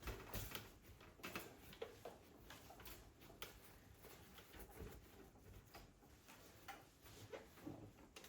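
Faint, irregular light clicks and taps, a few each second.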